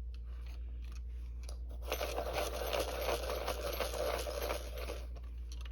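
A colored pencil being sharpened in a pencil sharpener: a dense, crunchy grinding scrape starts about two seconds in and lasts about three seconds.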